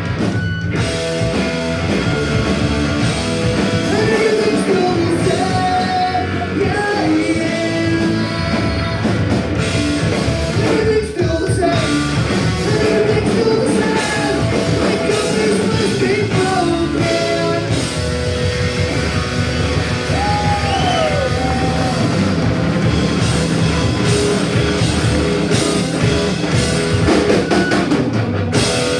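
Live punk rock band playing a fast song: distorted electric guitars, bass and drum kit with a shouted lead vocal.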